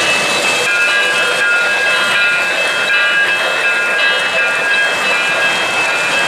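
Train rolling along the rails: a steady running noise laced with short high-pitched tones that come and go.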